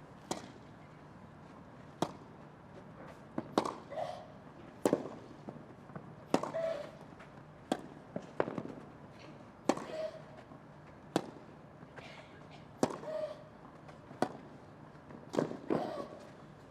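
Tennis rally: a racket strikes the ball about every second and a half, a dozen times in a row, with a short grunt from a player on several of the shots.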